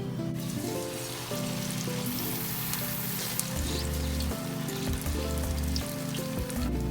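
Turon (banana spring rolls) sizzling as they fry in hot oil, a steady crackling hiss under background music.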